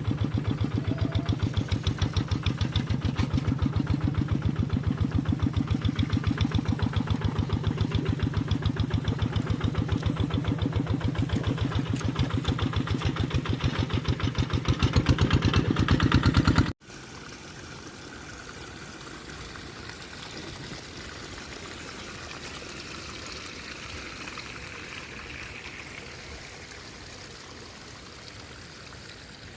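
A tractor engine running with a steady rapid beat, a little louder just before it cuts off abruptly about two-thirds of the way through. After the cut there is a quieter steady rushing noise.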